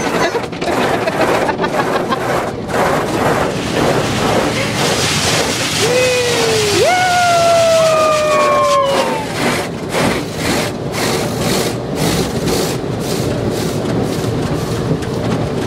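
Automatic car wash heard from inside the car: a steady rush of water spray and brushes beating on the body, with repeated thumps. About six seconds in, a child's voice wails for about three seconds, falling in pitch.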